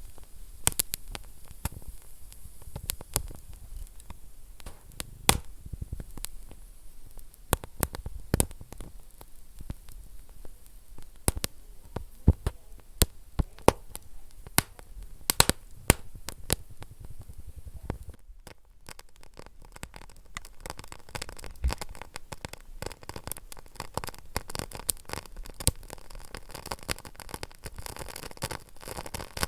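Wood fire in a fireplace crackling, with many sharp pops and snaps over a low rumble. About two-thirds of the way through, the pops thin out and a steadier hiss takes over.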